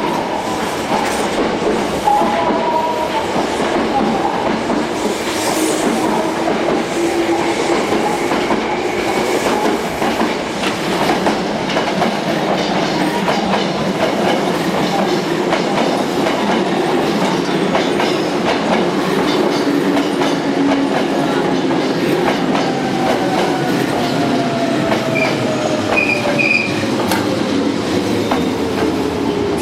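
Hankyu electric train running on the rails with steady wheel and rail noise. A whine falls slowly in pitch over the last several seconds.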